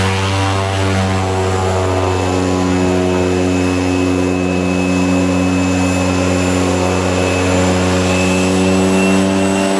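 Aircraft engines running steadily: a constant low hum with a thin high whine above it.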